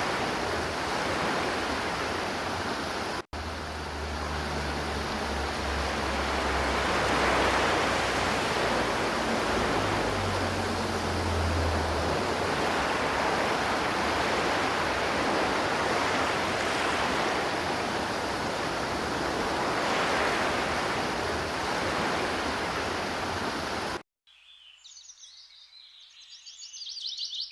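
River water rushing steadily, with a brief dropout about three seconds in. The rushing cuts off abruptly near the end, leaving a bird chirping in rapid repeated notes.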